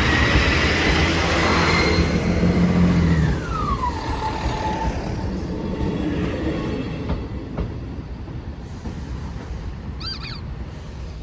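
A train passing close by. Its low rumble and a high whine drop sharply in pitch as it goes past about three seconds in, then fade into the distance.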